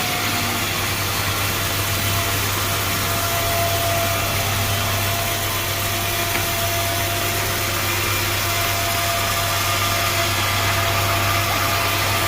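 Sawmill machinery running steadily: a continuous engine or motor drone with a constant low hum.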